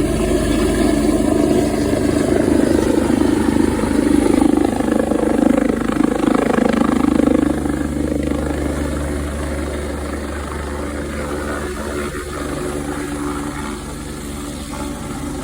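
Medical transport helicopter running with a steady engine and rotor drone, a little quieter from about halfway.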